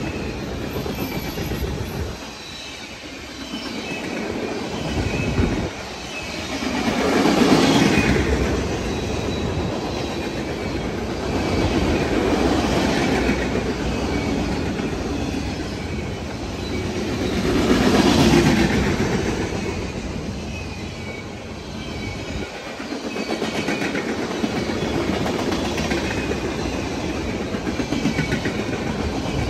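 Loaded freight flatcars rolling past, steel wheels clacking over the rail joints with a steady rumble that swells twice, about seven and eighteen seconds in. Faint high wheel squeal runs over it.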